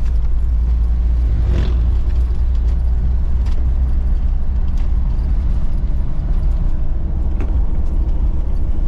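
Vehicle driving on the road: a steady low rumble of engine and road noise, with a few faint clicks and rattles.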